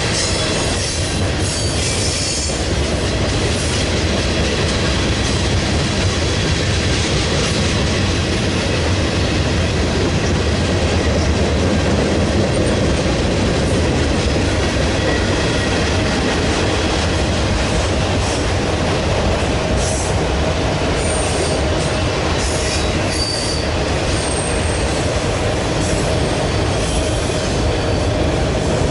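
Freight train's cars rolling past, a steady loud rumble and clatter of steel wheels on rail, with short high wheel squeals in the second half.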